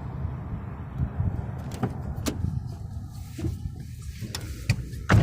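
The 2000 Chevrolet Impala's 3.4-litre V6 engine running with a steady low rumble and no stumbling. A few scattered clicks are heard, with a louder knock near the end.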